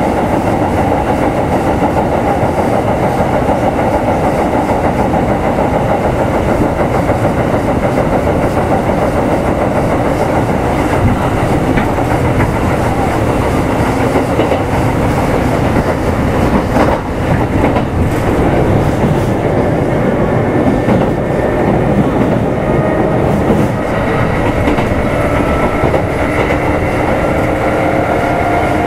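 Onboard running sound of a Kintetsu 2800 series electric motor car: steady wheel-and-rail noise with a few rail-joint clicks around the middle. From about two-thirds of the way through, a whine from the traction motors and gears rises in pitch as the train picks up speed.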